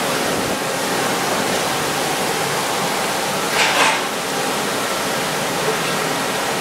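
Heavy rain falling in a steady loud rush, with a brief louder surge about halfway through.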